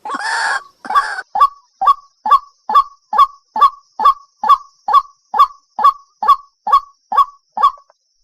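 White-breasted waterhen calling: harsh, noisy croaks for about the first second, then a steady run of about fifteen short, sharp notes, roughly two a second, that stops shortly before the end.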